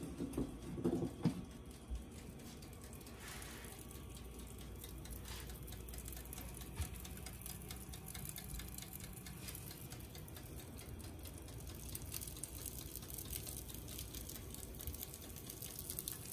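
Faint sizzling and crackling of turkey meatballs frying in oil, a steady patter of tiny pops that grows a little louder toward the end. A few brief knocks in the first second or so.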